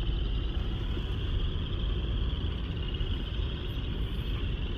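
Car running at low speed with a window down, a steady low rumble, and a constant high-pitched chorus of frogs from the marsh behind it.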